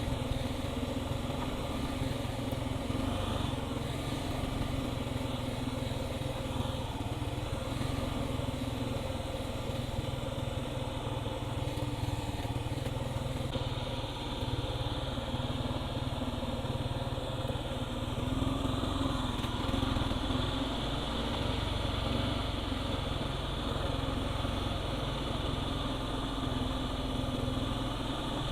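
Kawasaki KLR 650's single-cylinder engine running steadily.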